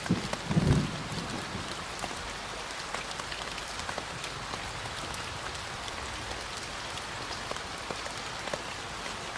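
Steady rain falling, a continuous hiss with many single drops ticking on a surface. A brief, loud low rumble comes about half a second in.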